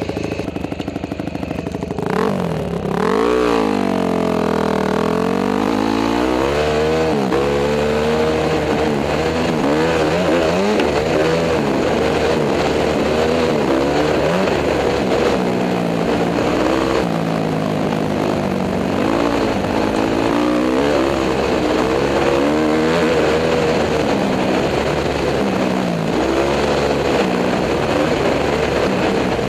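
Honda CRF250 dirt bike's single-cylinder four-stroke engine being ridden hard, its pitch rising and falling continually as the throttle is worked and gears change, heard from a helmet-mounted camera.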